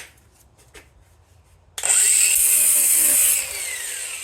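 A few light clicks, then a handheld power tool starts suddenly and runs at full speed for about a second and a half. It then spins down with a falling whine.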